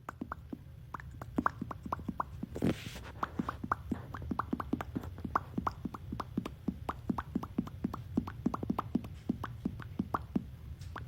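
A rapid, irregular run of short plopping clicks, about four or five a second, over a low hum, with a brief hiss about three seconds in.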